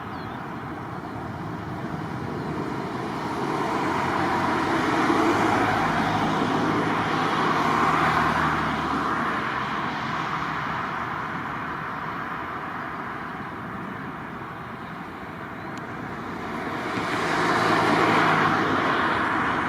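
Vehicles passing by: two swells of engine and rolling noise, one a few seconds in and another near the end, over steady outdoor background noise.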